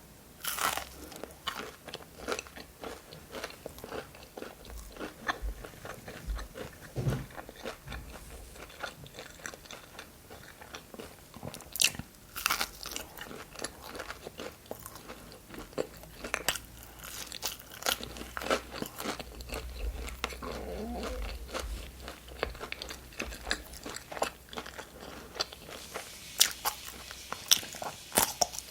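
Close-miked eating: crisp, crunchy bites and wet chewing of food, with a few sharp bites standing out at the start, about a third of the way through, and at the end.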